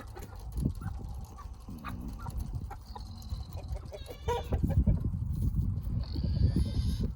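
Chickens clucking and calling in a coop, several short calls scattered through. Under them a low rumbling noise that grows louder from about halfway.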